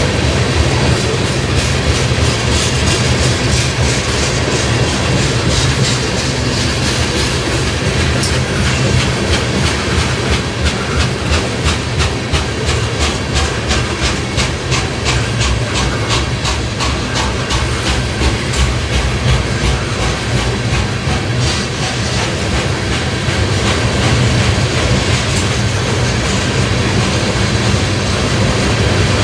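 Norfolk Southern train passing, with a steady low rumble. Through the middle a rapid, regular run of wheel clicks over rail joints rises and then fades.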